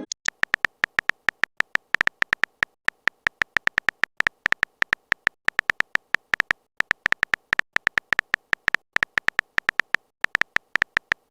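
Chat-app typing sound effect: a rapid run of short electronic ticks, about five or six a second, each with a high beep, with a few brief pauses, as a text message is typed out.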